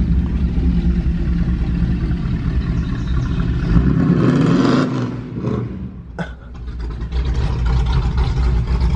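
Vehicle engine running with a steady low drone. It swells about four to five seconds in, eases off briefly, and settles back to its steady run, with a sharp click about six seconds in.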